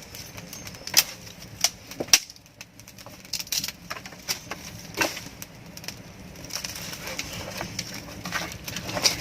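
Irregular sharp knocks and clicks, a few seconds apart, over a steady background hiss.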